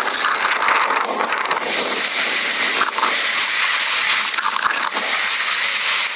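Loud, steady rush of floodwater as a flooded river pours into the sea.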